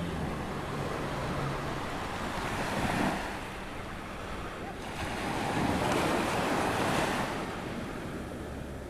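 Ocean surf washing onto a sandy beach on an incoming tide, with breaking waves swelling about three seconds in and again around six seconds in. A low steady hum fades out in the first second or two.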